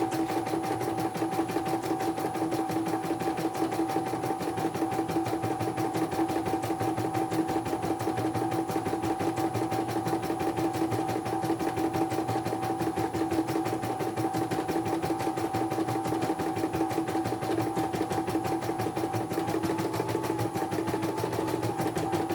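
Computerized embroidery machine stitching at speed: a fast, even run of needle strokes over a steady motor whine.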